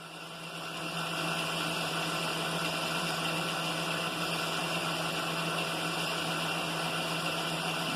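Milling machine spindle motor starting and running steadily, with a boring head and bar turning; it comes up to speed over about the first second, then holds an even hum and whine.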